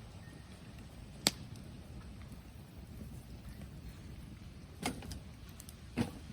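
Bonfire of bamboo and wood burning with a low steady crackle, a sharp crack about a second in and two more pops near the end.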